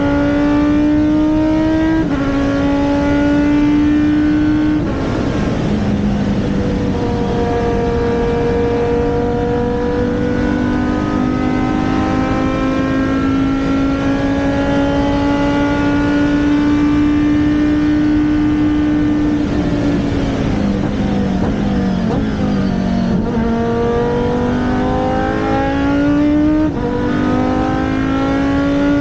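Race car engine running hard on track, its pitch dropping sharply at gear changes about 2 and 5 seconds in, then climbing slowly. Near the end the revs fall away and pick up again in steps.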